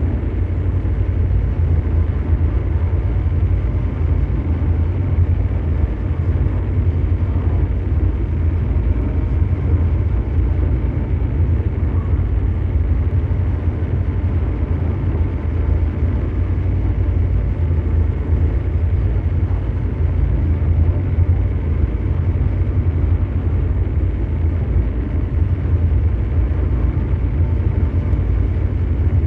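Continuous ambient mechanical drone: a deep, steady engine-like noise, heaviest in the low bass, that does not change.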